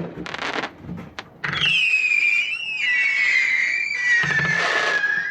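Consumer 500-gram fireworks cake firing: a few sharp shots with crackle, then several whistles sounding together in one long, slowly falling whistle lasting about four seconds.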